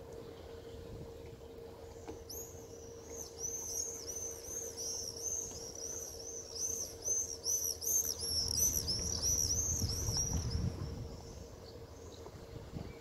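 A bird calling a fast run of high, arched chirps, about three a second, for some eight seconds. The chirps start a couple of seconds in, grow louder, then stop shortly before the end.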